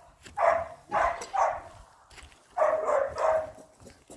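Dog barking repeatedly: two runs of about three quick barks each, with a short pause between them.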